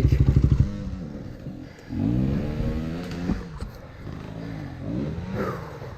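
Dirt bike engine thumping at low revs cuts out abruptly under a second in: the engine stalls on the slippery hill. Another dirt bike engine then revs up and back down twice, quieter.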